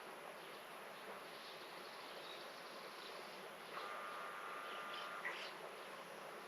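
Quiet garden ambience: a faint steady hiss, with a thin insect buzz about four seconds in that lasts over a second, and a few faint high chirps.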